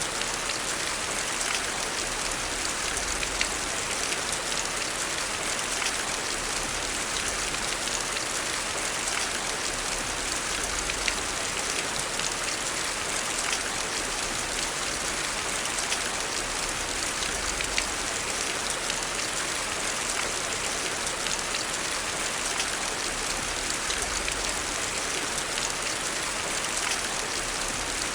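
Heavy rain falling as a steady, even hiss, with many small sharp ticks scattered through it.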